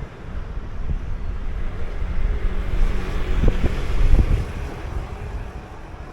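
Wind buffeting the microphone of a running body camera, a low rumble that swells in the middle with a couple of thumps, then eases off.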